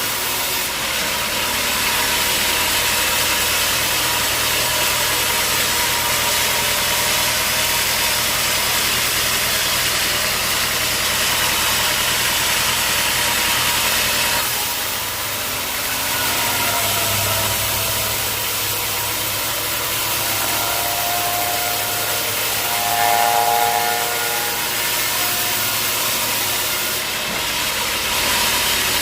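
Sawmill machinery running steadily: a loud, even mix of motor and saw noise, dipping briefly about halfway through, with a short louder whine a few seconds later.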